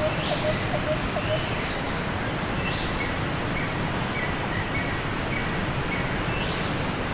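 Steady rush of Tukad Cepung waterfall, with short chirps repeating over it during the first second and a half and again in the middle of the stretch.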